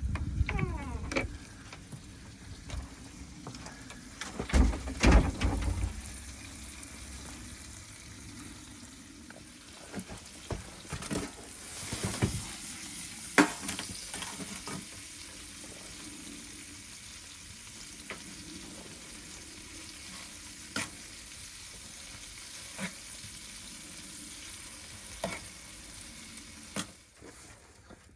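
Chopped steak pieces frying in butter in a pan, a steady sizzle with scattered knocks and scrapes of a utensil stirring them; a cluster of louder low thumps comes about five seconds in.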